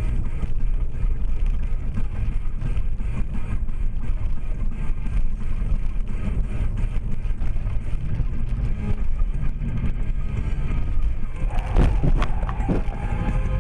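Vehicle driving, a steady low rumble of engine and road noise, with a short clatter of sharp knocks and a brief tone about twelve seconds in.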